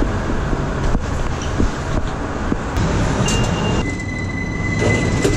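New York City subway train running, a loud rumble with scattered clatters; about four seconds in, a steady high-pitched wheel squeal sets in and holds.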